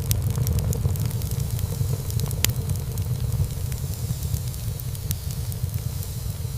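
Wood fire burning in a fireplace: a steady low rumble of flames with frequent small crackles and pops of burning wood, one louder pop about two and a half seconds in.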